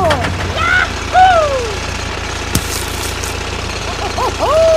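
An engine idling with a steady low rumble, under several squeaky vocal glides that rise and then fall, like cartoon characters' voices. One sharp click comes about halfway through.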